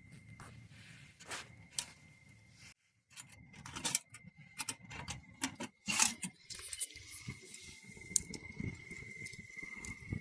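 Scattered clicks, knocks and rustling of things being handled, the loudest knock about six seconds in, over a faint steady high-pitched tone.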